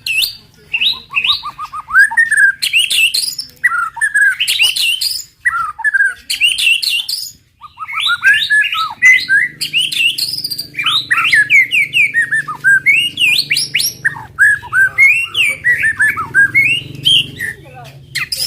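White-rumped shama singing a fast, varied song of loud whistled phrases, quick trills and slurred notes, broken by brief pauses, the aggressive 'tembakan' song used to provoke other shamas into singing.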